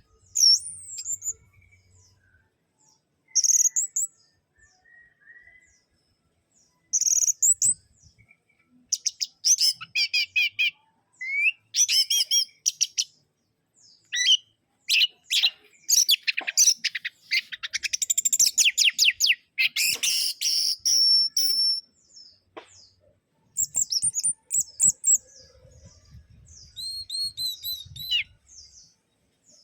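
Orange-headed thrush singing in separate bursts of varied, high, rapid phrases and trills with short pauses between them; the longest, fullest stretch of song comes around the middle.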